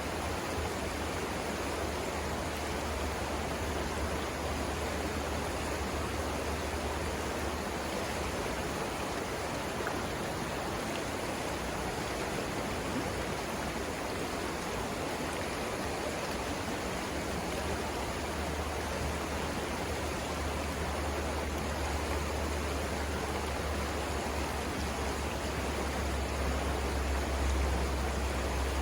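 River water rushing steadily over rapids, an even unbroken noise. A low rumble runs under it, drops away in the middle, and comes back stronger near the end.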